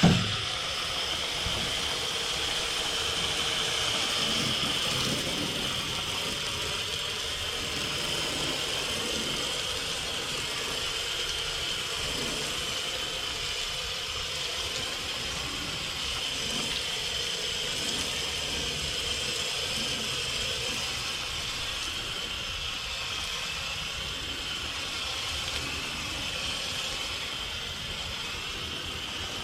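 Garden hose spray nozzle hissing steadily as fresh water rinses the cleaning solution off a boat's hull and deck. A single sharp knock right at the start.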